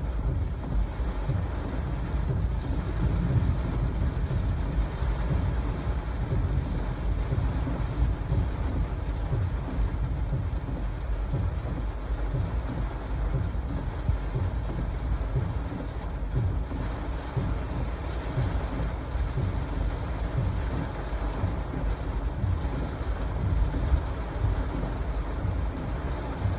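Heavy rain with strong gusty wind buffeting the microphone: a steady rushing noise over a deep, fluttering rumble.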